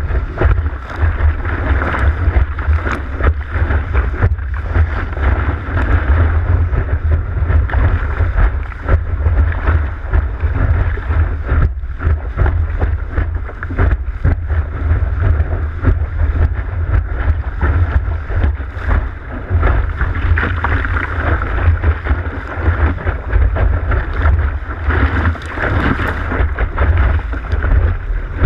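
Strong wind buffeting the microphone in a heavy, steady rumble, over the rushing and splashing of water, in a 15–20 knot wind.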